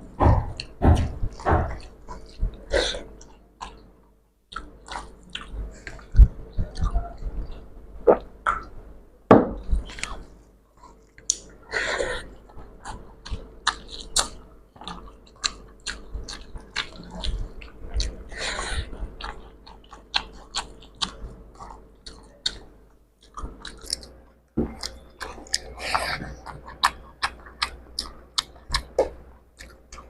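Close-miked chewing of rice with fish curry and fried egg: a steady run of short wet clicks and lip smacks, with a few louder chewing noises along the way.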